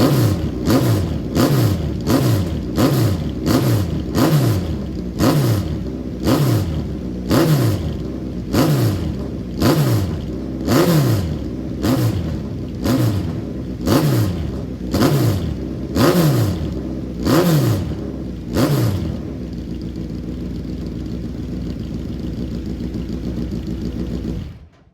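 Engine of a handmade Tyrrell P34 F1 replica, breathing through a newly made 4-into-2-into-1 exhaust, blipped again and again at about one rev a second, each rev falling straight back. Near the end it settles to a steady idle, then the sound cuts off abruptly.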